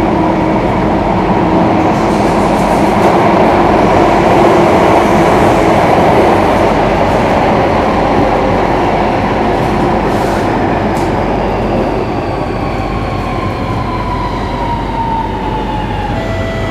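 Singapore MRT train running on the track, heard inside the carriage as a steady rumble and hiss. From about twelve seconds in, a falling electric motor whine joins it as the train slows.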